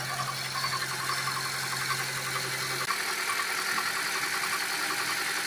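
2012 Honda CR-V's four-cylinder engine running with a fast, light knocking: a worn timing chain slack against its worn upper chain guide. A low hum cuts off about three seconds in.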